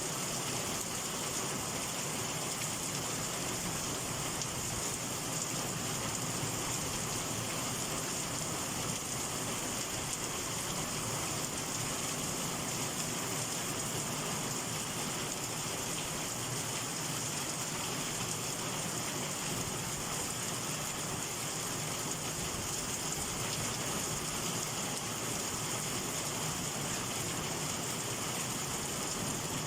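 Steady heavy summer rain falling in a downpour, an even hiss of rain with no let-up.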